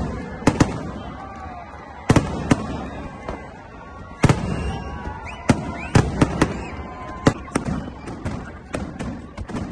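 Aerial firework shells bursting overhead: an irregular run of sharp bangs, well over a dozen, several coming in quick pairs.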